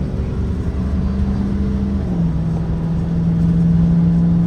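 Engine of a Blue Bird Vision propane school bus running under way. Its pitch climbs slightly, then drops about halfway through as the transmission shifts up, and it holds steady after that.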